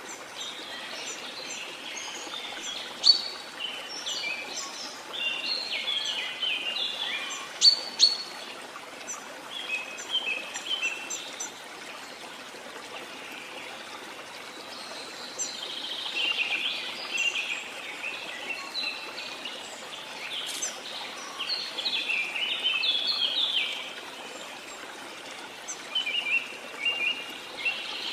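Steady rush of a waterfall, with many birds chirping and calling over it in clusters: busy for the first several seconds, sparser for a while, then busy again through the middle and later part.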